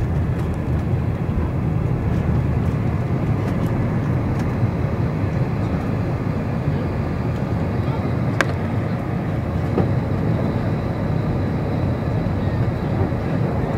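Airbus A319-100 jet engines heard from inside the cabin during takeoff: a steady, loud, low rumble of engine and airflow noise. A faint high whine comes in about halfway through, and there is a single sharp click about eight seconds in.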